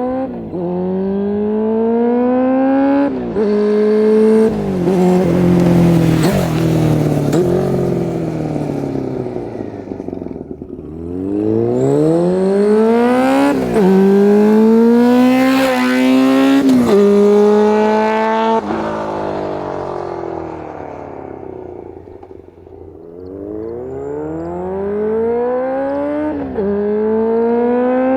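Honda CB400Four NC36's air-cooled inline-four through a Yoshimura exhaust, accelerating hard through the gears: the note climbs and drops sharply at each upshift. It does this three times, the note falling and fading between runs.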